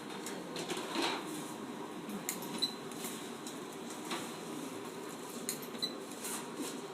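Automatic spot welding machine: scattered light metallic clinks and clicks at irregular intervals over a steady low hum.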